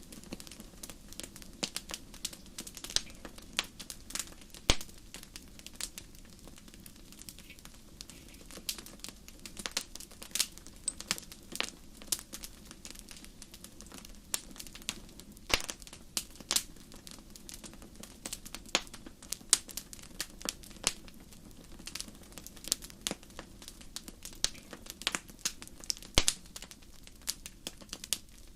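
Wood fire crackling in a fireplace: irregular sharp pops and snaps, a few of them loud, over a soft steady low rush.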